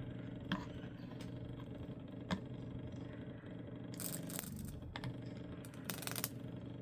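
Microwave oven transformer Lichtenberg rig, driven through a pulser, humming steadily, with a couple of sharp clicks and two short hissing bursts of high-voltage arcing about four and six seconds in.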